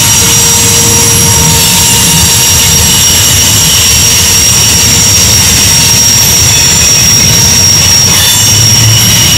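Diesel freight locomotives passing on a sharp railway curve: a steady engine rumble under a high, steady squeal of steel wheels against the rails.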